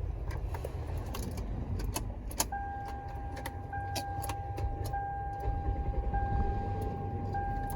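Inside a car cabin with a steady low rumble, a few sharp clicks are followed by a car's electronic warning chime: a steady beep tone re-sounding about every second and a quarter.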